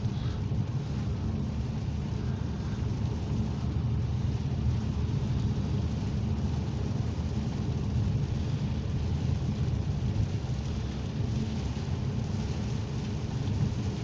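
Heavy rain beating on a moving car, heard from inside the cabin over a steady low rumble of road and engine noise.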